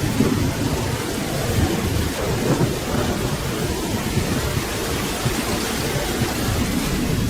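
Steady rain with a low, continuous rumble of thunder underneath.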